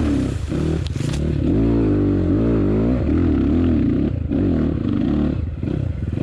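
Enduro motorcycle engine running hard as it is ridden, its pitch rising and falling with the throttle, with a few brief dips where the throttle is rolled off.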